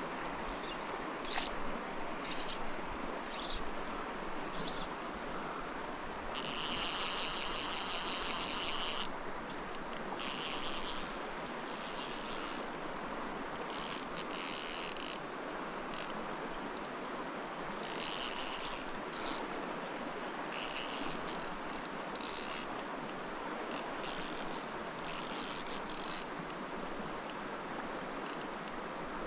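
Creek water rushing steadily, with repeated bursts of high, rapid clicking, each from under a second to a couple of seconds long, the longest about six and a half seconds in.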